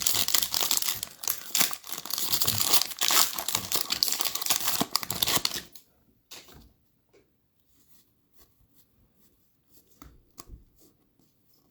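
Plastic wrapper of a basketball trading card pack being torn open and crinkled for about six seconds, followed by a few faint taps and clicks.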